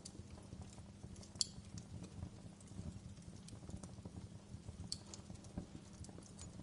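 Wood fire crackling softly, with irregular small clicks over a low steady rumble and two sharper pops, about a second and a half and five seconds in.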